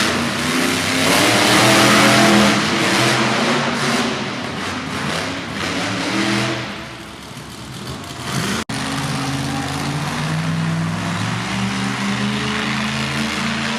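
Monster truck engines revving hard, the pitch climbing and falling with the throttle. Loudest in the first few seconds, it eases off about seven seconds in, then revs up again.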